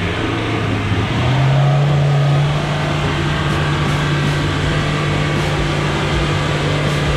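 Land Rover Defender engine running under light load as it crawls through a muddy lane; the engine note rises a little about a second in, then holds steady.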